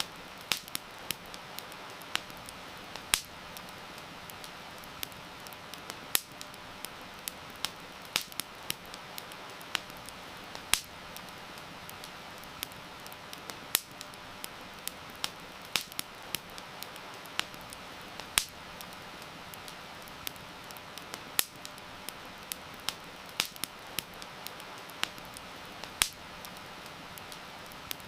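Wood campfire crackling, with irregular sharp pops and snaps, a few of them loud, over a steady hiss of heavy rain.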